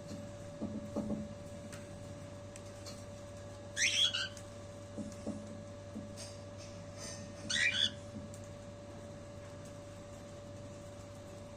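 Pet lovebird giving two short, shrill, upward-sweeping chirps about four seconds apart, over a steady electrical hum, with a few soft low rustles in between.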